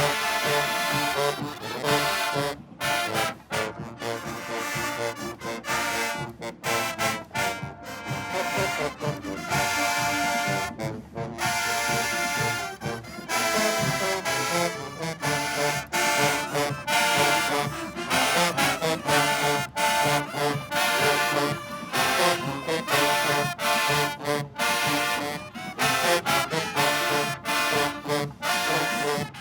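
Marching band playing, its brass section carrying the tune in short phrases broken by brief gaps.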